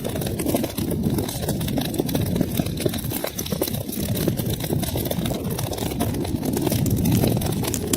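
Wood fire crackling with many small, sharp pops scattered over a steady low rumble of the flames.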